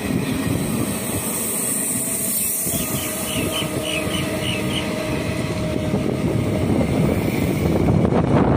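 Indian Railways train running past, a steady rumble that grows a little louder near the end.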